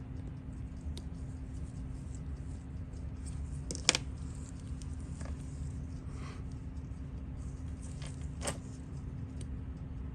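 A few small, sharp metallic clicks of watchmaker's tools handling parts of a Seiko 6138 chronograph movement during disassembly, the loudest about four seconds in and another at about eight and a half seconds, over a steady low hum.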